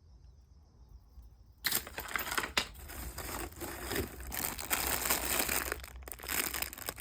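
Packaging crinkling and rustling as it is handled and opened, starting about two seconds in and going on as a dense run of crackles.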